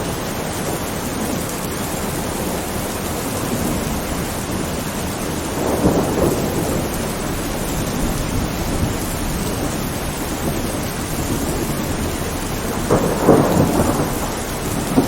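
Steady heavy rain with rolling thunder, the rumble swelling louder about six seconds in and again about thirteen seconds in.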